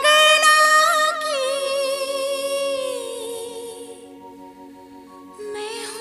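A high voice singing a Hindi song, holding one long wavering note that fades away about four seconds in. A new note begins near the end, over a steady low drone.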